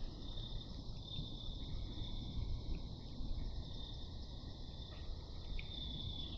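A chorus of crickets trilling steadily at night, a high continuous chirping, with a faint low rumble underneath.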